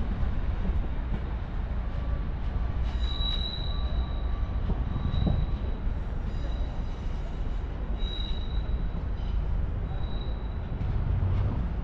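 Train running over the station tracks with a steady low rumble, its wheels giving high-pitched squeals that come and go from about three seconds in until near the end.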